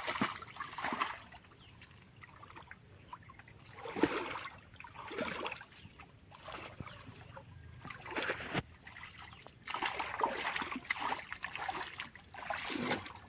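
Irregular splashing and sloshing in water and wet mud, in short bursts of a second or less.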